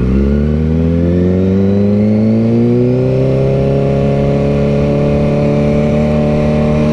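Motorcycle engine accelerating, its pitch rising smoothly over the first few seconds and then holding steady at cruising speed.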